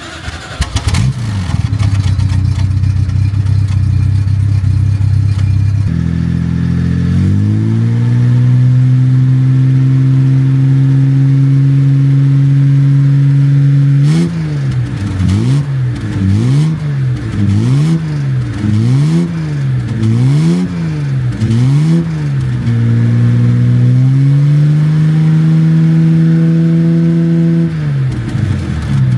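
Car engine running, its revs climbing to a steady fast run, then blipped up and down about once a second before rising and holding steady again.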